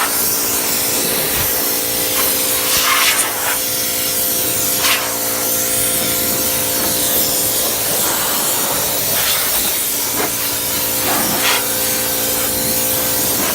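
An air spray gun hisses steadily as it sprays primer, over the steady hum of a small 10-gallon air compressor that is running. There are a few brief louder spurts.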